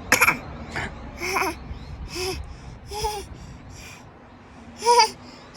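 An 8-month-old baby babbling in short, high-pitched vocal sounds, about five of them, the loudest at the start and near the end.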